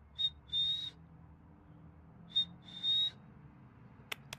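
A two-note whistle at one high, steady pitch, a short note then a longer held one, given twice about two seconds apart. A few sharp clicks come near the end.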